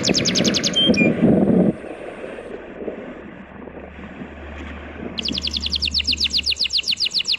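A bird's fast trill of rapid, evenly repeated downward-sweeping notes, breaking off about a second in and starting again about five seconds in. Under it runs a rush of surf and wind, which drops away sharply near the two-second mark, and a faint low drone follows in the middle.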